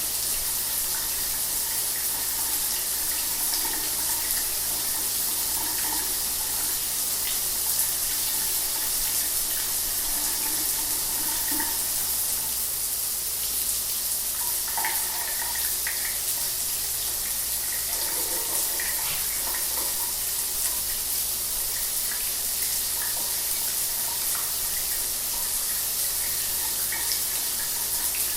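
Shower water running steadily, a continuous hiss of spray falling with faint splashes mixed in.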